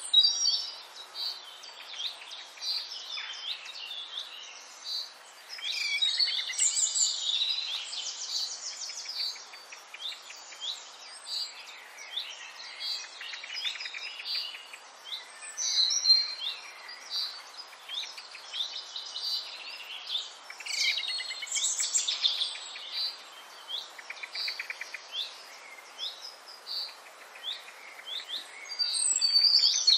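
Many small birds chirping and singing in quick, varied phrases, over a faint steady background hiss.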